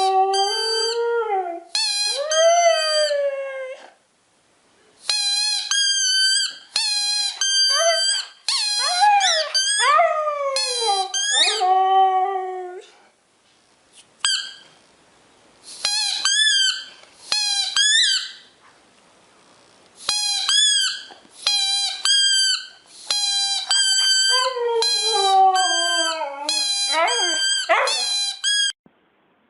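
Dogs howling in bouts of long, gliding howls, with high-pitched wavering squeals mixed in and several voices overlapping at times. The howling is set off by an ambulance siren.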